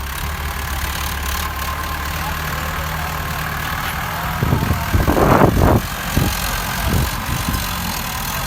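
Sonalika 60 tractor's diesel engine running steadily at low speed, with a louder swell about halfway through that lasts a second or so.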